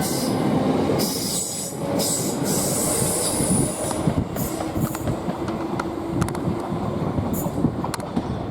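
Class 455 electric train running on the tracks as it pulls away, with a high wheel squeal about two to three seconds in and scattered clicks over a steady rumble.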